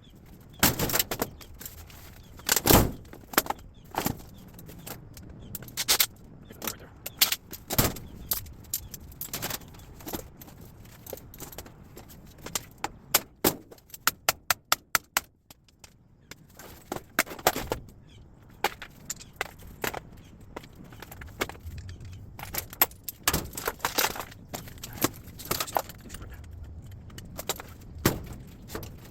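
Irregular sharp clanks and clatters of scrap metal being handled and dropped, with a quick run of about a dozen clicks about halfway through.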